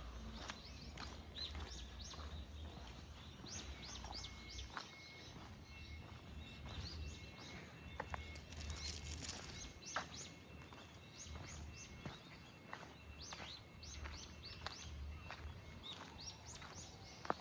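Small birds chirping: many short, high, falling calls repeated throughout, over faint outdoor background noise with a few light clicks.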